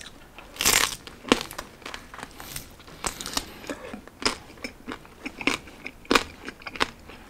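A bite into crispy roasted pork belly (liempo) about half a second in, then chewing with repeated crunches of the crackling skin.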